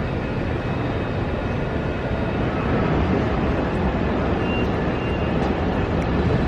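Steady rumble and hiss of a moving vehicle, slightly louder from about two and a half seconds in.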